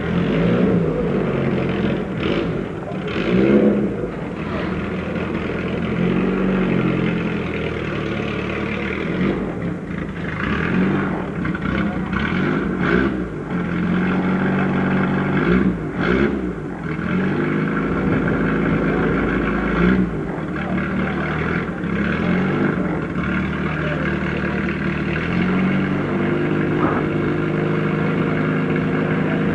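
Hill-climb race car engine revving hard, its pitch climbing and dropping again and again as it shifts through the gears, heard through mono Betamax camcorder audio.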